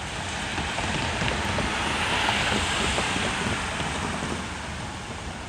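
Road noise of a vehicle passing on a city street: a broad rush that swells about two to three seconds in and then fades.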